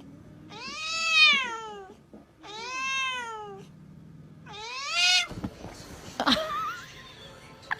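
A domestic cat meowing three times, each a long drawn-out meow that rises and then falls in pitch. A few softer knocks and clicks follow near the end.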